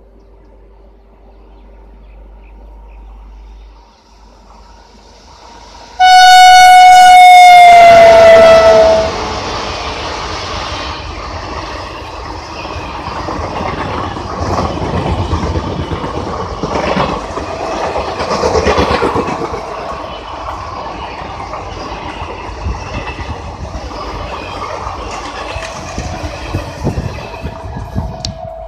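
A WAP-7 electric locomotive's horn sounds very loudly for about three seconds, its pitch dropping as the engine passes. The passenger coaches then run past with a steady clatter of wheels over the rail joints.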